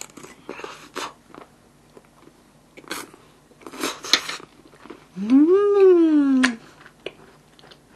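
Close-up chewing of a yakgwa honey cookie and ice cream mouthful, with scattered wet mouth clicks and smacks. About five seconds in, a long hummed 'mmm' rises and then falls in pitch.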